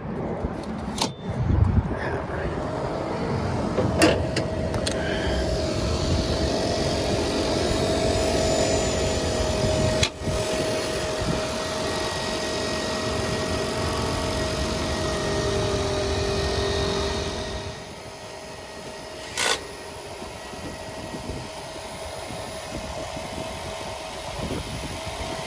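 Carrier rooftop HVAC unit running, its newly belted blower giving a steady rumble with a whine. The sound drops away about eighteen seconds in, and a few sharp knocks or clicks stand out.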